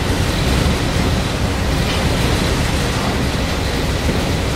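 Steady, loud rumbling rush of a boat under way, its engine and passing water blended, with no sudden events.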